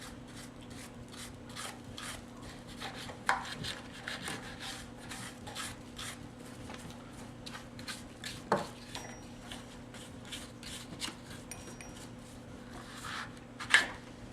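Brush scrubbing caked sawdust and crud out of a chainsaw's bar-oiling port, in quick repeated scraping strokes a few a second, with a few sharper knocks against the saw's body; the loudest knock comes near the end.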